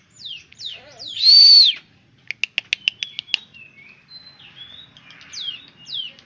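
Ciblek gunung, a mountain prinia, calling: quick downward-slurred whistled notes, about three a second. About a second in comes one loud, drawn-out arched whistle, the loudest sound here. A rapid run of sharp ticks follows, then softer notes, and the downward slurs return near the end.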